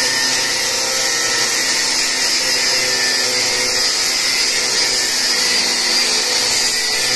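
Power tool running steadily and loudly as it cuts through a steel Lada Priora anti-roll bar.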